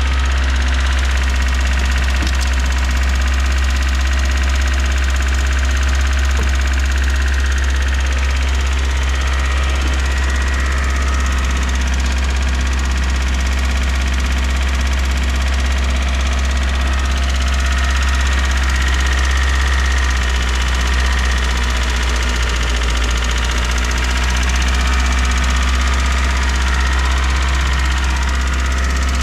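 Mazda Miata four-cylinder engine idling steadily, with an even, unchanging note.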